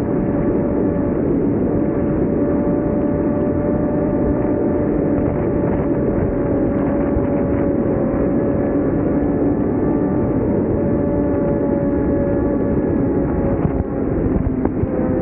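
BMW S1000RR inline-four engine running at steady high revs under way, its pitch drifting slightly lower over a dense rushing noise. Near the end the sound briefly dips, then the pitch starts to climb again.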